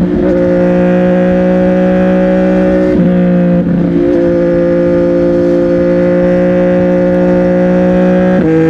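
CFMOTO 675NK's three-cylinder engine through a Burnout titanium aftermarket exhaust, running under steady revs while riding. The engine pitch dips briefly three or four times before settling back.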